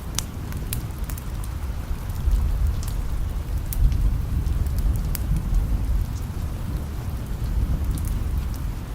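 Steady rain with a low rumble of distant thunder that swells about two seconds in and fades slowly, with scattered sharp crackles from a wood fire.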